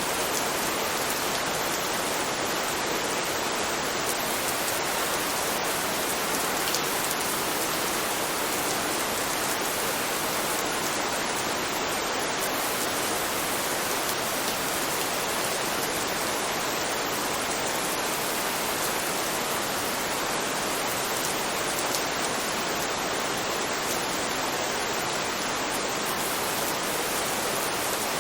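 Steady rain: an even hiss, with a few faint drop ticks here and there.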